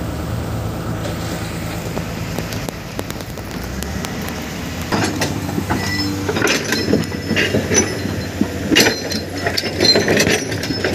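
A heavy construction machine's diesel engine runs steadily. About five seconds in, a dense, irregular run of metallic clanks and rattles joins it.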